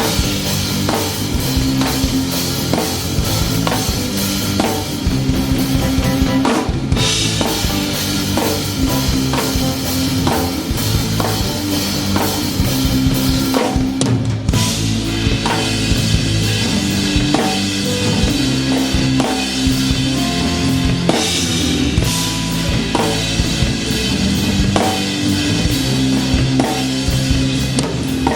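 A live band plays an instrumental passage, with the drum kit loud and close. Kick drum and snare keep a steady beat under held low instrument notes.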